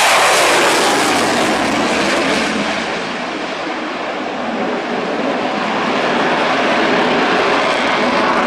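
Antonov An-178's twin turbofan engines running loud and steady as it flies a display pass. The noise eases a little about three seconds in and builds again toward the end.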